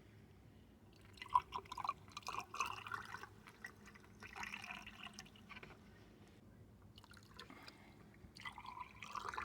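Water being poured into the ports of an engine cylinder head for a valve leak test, trickling and splashing in three short spells.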